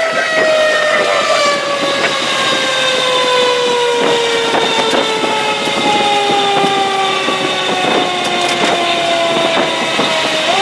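Fire engine siren winding down, its pitch falling slowly and steadily for the whole stretch, then spun back up with a quick rise near the end.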